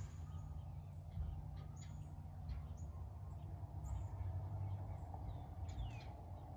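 Birds chirping in the background: scattered short high chirps, with a couple of quick falling whistles near the end, over a steady low rumble.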